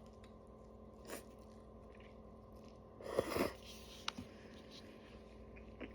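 Quiet eating sounds from a cup of instant noodles: soft chewing with a few small clicks, and one short, louder mouthful sound about three seconds in.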